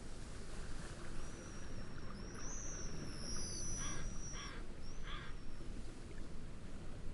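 Steady wind and wave noise with a bird calling over it: high whistled notes that slide down in pitch from about two seconds in, and three short calls between about four and five seconds in.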